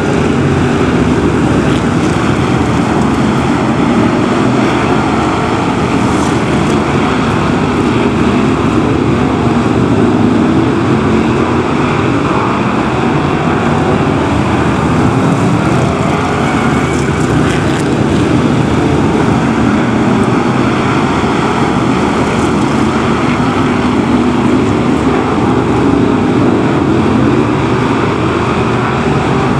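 BriSCA F1 stock cars' V8 engines running hard in a race, a loud unbroken engine noise whose pitch rises and falls as the cars lap and pass.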